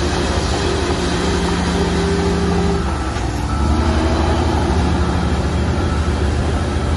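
Shantui bulldozer's diesel engine running steadily, its note dropping and changing about three seconds in.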